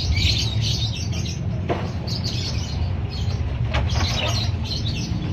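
Several Pekin robins (red-billed leiothrix) chirping and calling together in rapid short notes, over a steady low hum.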